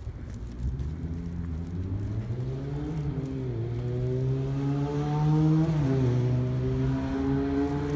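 Car engine accelerating, its pitch climbing and then dropping twice as it shifts up through the gears, growing louder toward the middle.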